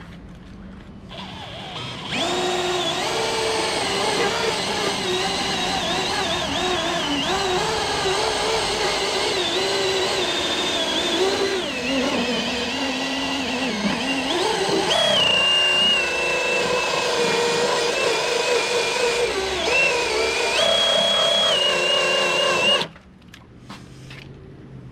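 Drill spinning a rubber decal-remover (eraser) wheel against truck paint, rubbing off old adhesive residue. It starts about two seconds in, its whine wavers and dips in pitch as the wheel is pressed on and eased off, and it stops abruptly near the end.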